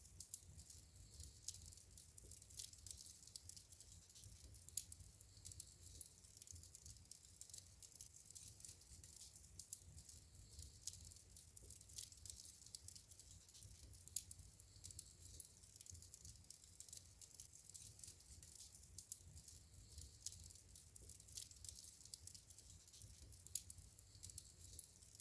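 Wood fire burning in a fireplace, faint, with frequent small irregular crackles and pops over a low steady rumble.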